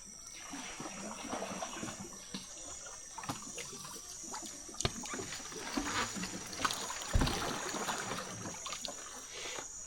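Rainforest insect chorus: a steady high trill that pulses about twice a second, over faint trickling water and scattered small clicks and knocks, with one dull thump about seven seconds in.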